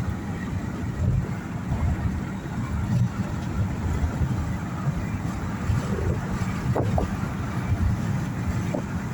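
Car driving along a highway: a steady low rumble of road and engine noise with some wind noise.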